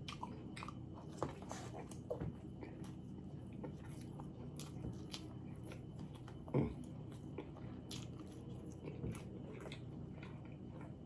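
Close-up eating sounds of a person chewing an Italian beef sandwich with peppers: wet mouth smacks and soft crunches, with one louder smack about six and a half seconds in.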